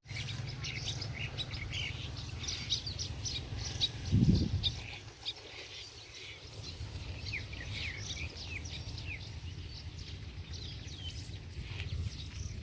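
Many small birds chirping with short, quick calls and little sliding notes, several kinds at once, over the low rumble of wind on the microphone. A single low thump comes about four seconds in.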